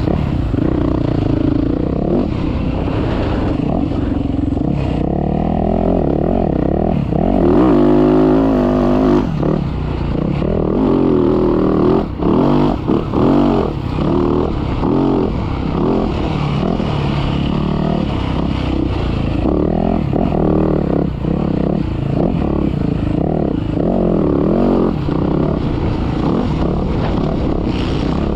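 Motocross dirt bike engine revving up and down as it is ridden hard on a sand track, the pitch climbing and falling with the throttle and gearchanges. There are several quick throttle chops about halfway through.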